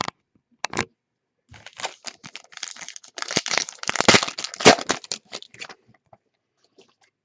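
Foil trading-card pack wrappers being torn open and crinkled by hand, a dense crackling with sharp snaps, busiest in the middle and dying away about a second before the end.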